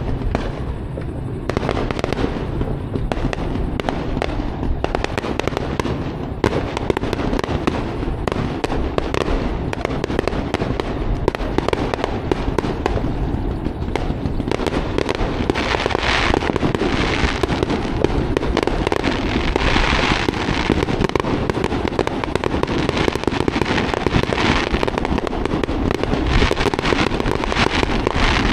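Fireworks crackling and popping in a dense, unbroken stream, getting busier about halfway through.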